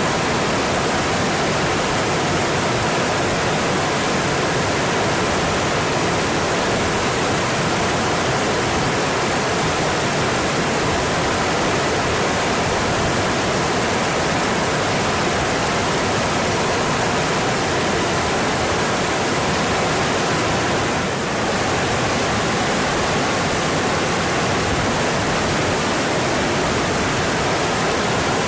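Mountain stream flowing steadily, a dense even wash of water noise, with one brief slight dip in level about three-quarters of the way through.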